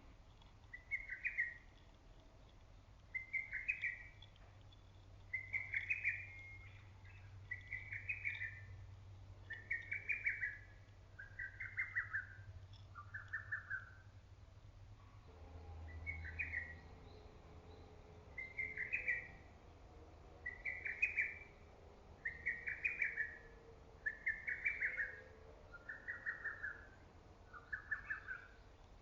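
Lesser cuckoo (hototogisu) singing its loud, stuttering song: a short run of quick whistled notes, repeated about every two seconds with a brief pause a little past halfway.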